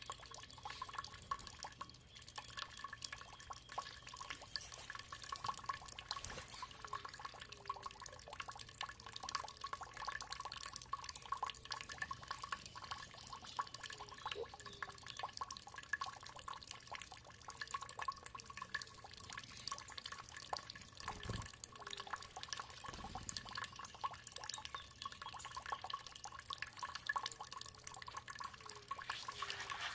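Water dripping and trickling: many small drips and splashes in quick, irregular succession over a steady flow.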